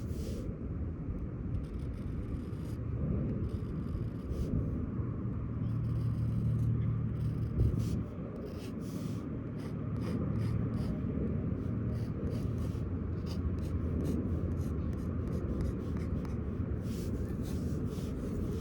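Pen scratching on paper in many short, quick strokes, over a steady low rumble of wind and distant traffic.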